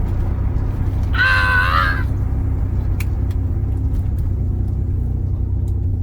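Turbocharged BMW M50B25 straight-six with a full exhaust, running steadily under way with a constant low rumble. A brief wavering high-pitched tone sounds about a second in, and there is a single click around the middle.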